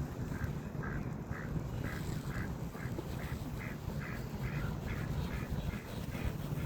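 Ducks quacking in a steady run, about two or three quacks a second, over a low background rumble.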